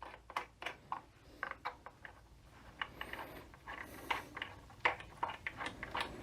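Light, irregular clicks and taps of hand tools and small metal transmission parts being handled on a workbench, about three or four a second.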